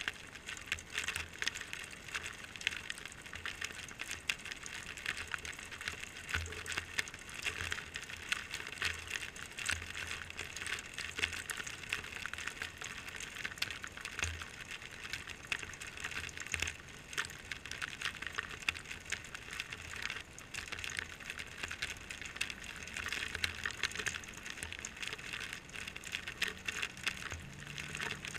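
Rainwater trickling out of a metal gutter downspout onto concrete, under a steady, dense patter of close raindrops tapping.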